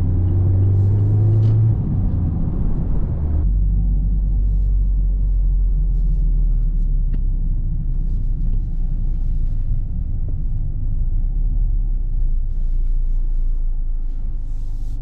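Mazda Miata on the move: a steady low engine and road rumble heard from inside the car, its engine note dropping lower about two to three seconds in.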